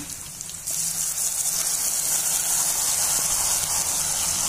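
Oil sizzling in a wok over frying onions; about a second in the sizzle jumps to a loud, steady hiss as a wet ground paste of dried puthi fish, onion and dried chilli goes into the hot oil.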